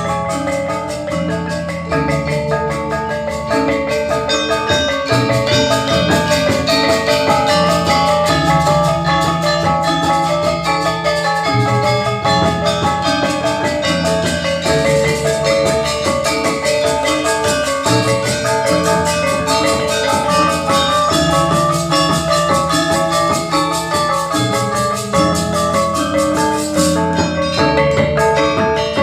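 Balinese gamelan gong ensemble playing: bronze metallophones ringing in fast, dense note patterns over low held tones that change every second or two.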